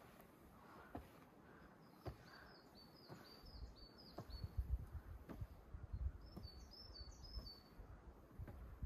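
A small songbird singing two phrases of short, high notes repeated quickly, faint against a low, uneven rumble and a few soft ticks.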